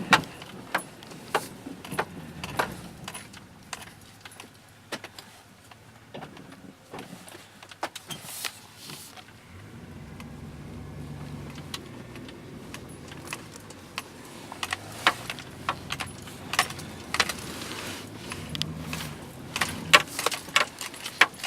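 Pickup truck engine running while plowing, heard from inside the cab, its note swelling twice. Many sharp clicks and jangling rattles sound in the cab over it.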